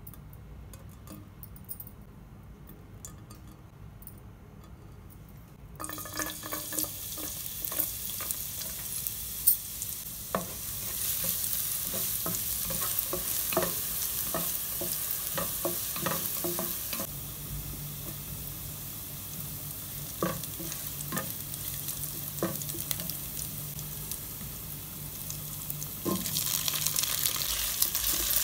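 Chopped garlic sizzling in hot oil in a nonstick pan, stirred with a wooden spatula that taps and scrapes against the pan. The sizzle starts about six seconds in and grows louder near the end, when fried prawns go into the pan.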